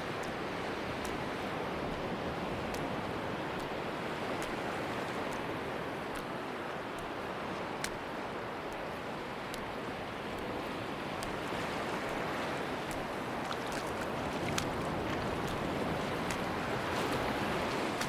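Sea surf washing onto a beach in a steady hiss that swells slowly near the end, with faint scattered ticks.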